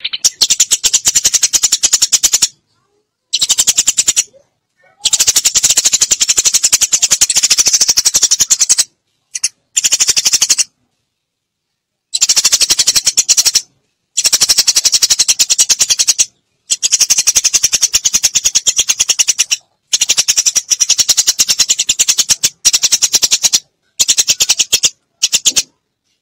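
Eurasian tree sparrows chattering: rapid, dense chirping in bursts of one to four seconds, broken by short dead-silent gaps. This is a bird-lure recording meant to draw sparrows in.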